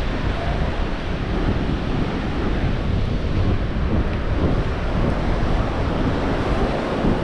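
Ocean surf washing onto the beach, mixed with wind buffeting the microphone: a steady rushing noise with a heavy low rumble.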